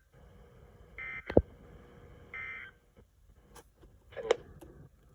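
Short buzzy digital data bursts from a weather radio, two of them about a second and a half apart: the EAS/SAME end-of-message code that closes a National Weather Service warning. Between the bursts there is a single sharp, loud click.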